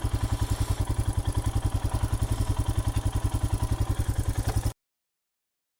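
A 2020 Royal Enfield Himalayan's single-cylinder engine idling with a steady, rapid pulse of about ten beats a second. The sound cuts off suddenly near the end.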